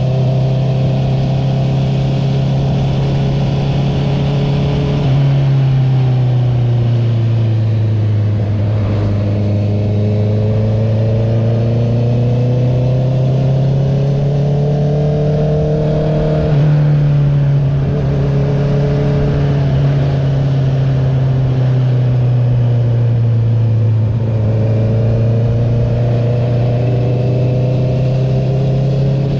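Exhaust note of a 2021 Honda CB650R's inline-four engine through an Akrapovic titanium full-system exhaust with the dB killer removed, running under way. The engine pitch slowly sinks and climbs again several times, with two sudden jumps in pitch, about five seconds in and just past halfway.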